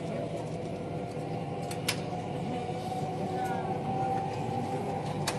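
Steady running noise inside a moving passenger train: a low hum with a faint held whine, and two sharp clicks, one about two seconds in and one near the end.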